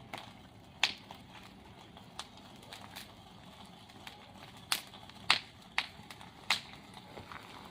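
Bonfire crackling: burning wood giving sharp, irregular pops, about eight of them spread through a few seconds.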